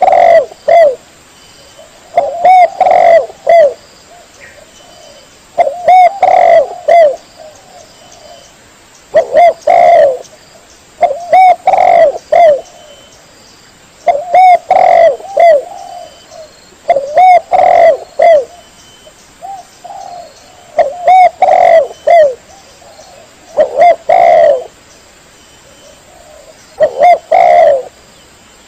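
Spotted dove (tekukur) cooing: short phrases of a few coos, repeated about every three seconds.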